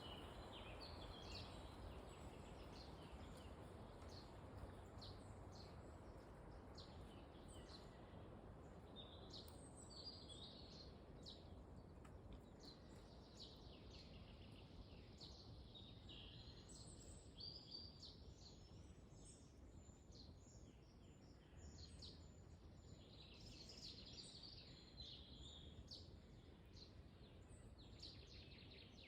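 Faint wind in a forest, a steady low rush, with small birds chirping on and off throughout.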